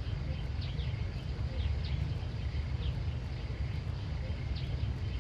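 Outdoor ambience: a steady low rumble with short high chirps, like small birds, every second or so.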